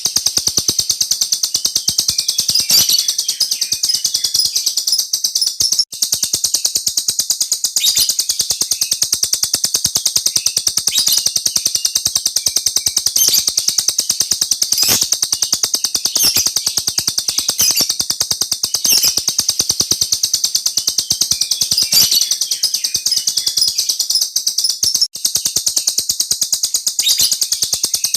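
A small caged songbird singing a long, unbroken rolling trill of very fast, high-pitched notes, pausing only briefly twice.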